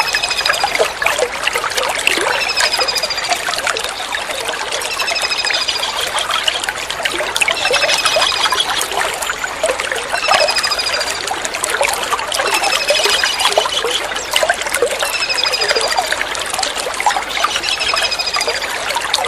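Small kingfisher (tengkek udang) calling: a short, high, falling trill repeated about every two and a half seconds, over steady trickling water.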